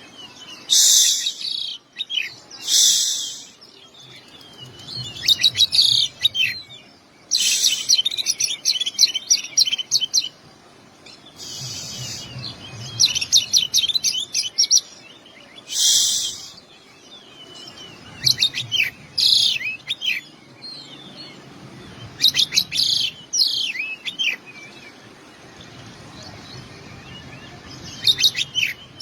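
Oriental magpie-robin (kacer) singing in repeated phrases of fast whistles and trills mixed with harsh rasping notes, with short pauses between phrases. The song carries 'isian', mimicked calls of other birds.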